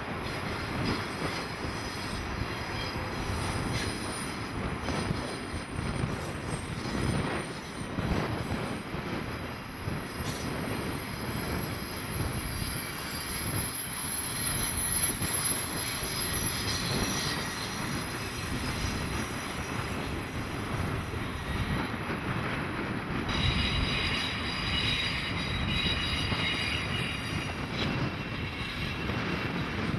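A train rolling past, its cars rumbling steadily on the rails, with high-pitched wheel squeal that changes pitch about two-thirds of the way through.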